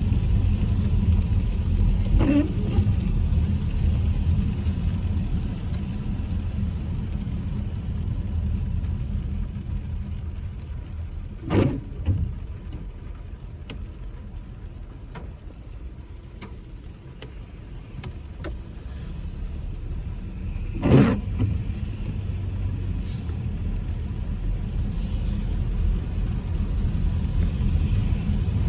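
Steady low road and engine rumble of a moving car, heard from inside the cabin. It eases off midway and builds again. Two short knocks stand out, about twelve seconds in and about twenty-one seconds in.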